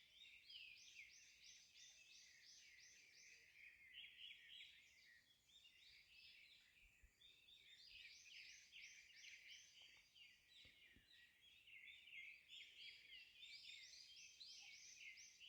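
Faint, continuous chorus of insects in woodland, a rapid run of repeated high chirping pulses that thins briefly a few seconds in and again near the middle before picking up.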